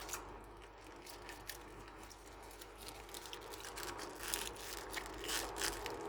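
Paper being handled: irregular crinkling and rustling clicks that grow a little busier in the second half.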